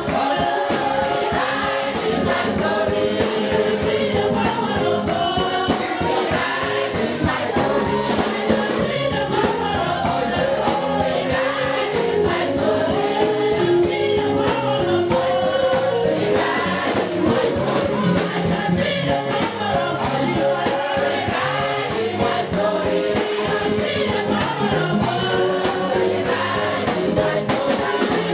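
Church choir and congregation singing gospel worship music with instrumental accompaniment and a steady beat.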